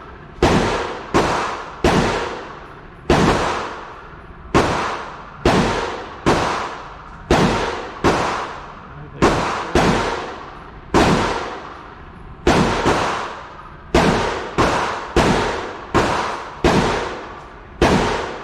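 A 9mm pistol firing a long string of single aimed shots, about twenty in all, spaced roughly a second apart with some quicker pairs. Each shot rings off in an echo lasting most of a second.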